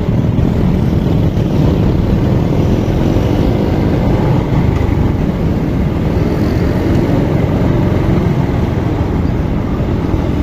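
Motor vehicle on the move: a steady low rumble of wind and road noise, with a faint engine note rising in pitch around the middle.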